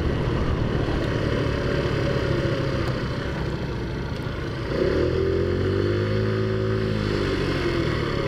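Taotao Zummer scooter's big-bore-kitted four-stroke engine running under way, with wind rushing over the microphone; about five seconds in it revs up and then eases back off.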